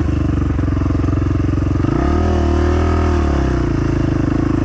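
Dirt bike engine running steadily, revving up about two seconds in and easing back down a second or so later.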